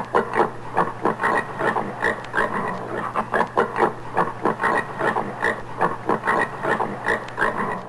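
Common warthog grunting in a rapid series of short grunts, about three a second, over a steady low hum.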